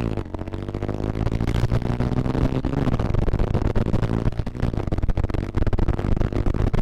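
Motorcycle engine running while riding, its pitch drifting slowly with the throttle, with rough rushing noise over it.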